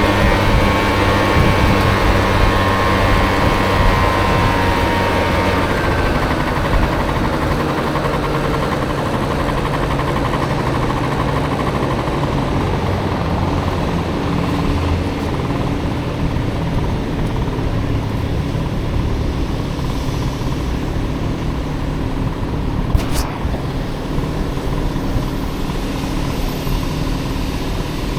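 Honda Motocompo scooter with a swapped-in Honda Dio engine running while ridden in city traffic, over steady road and wind noise. The engine note eases off about six seconds in, and there is a single sharp click late on.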